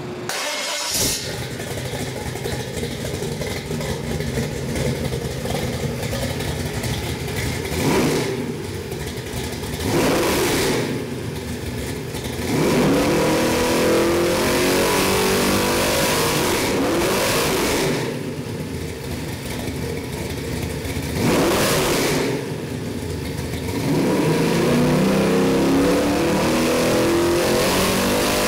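Chevy 427 big-block V8 starting about a second in, then running on the test stand and revved repeatedly: short blips of the throttle, and twice held at higher revs for several seconds before dropping back to idle.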